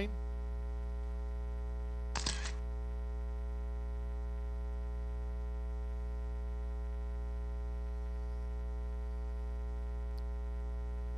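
Steady electrical mains hum, with a short burst of noise about two seconds in.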